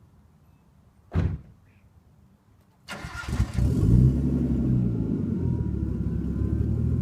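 Nissan RB20DET turbocharged inline-six, breathing through a Megan test pipe and cat-back exhaust, cranks and fires about three seconds in, then settles into a steady idle. A short, loud burst comes just over a second in.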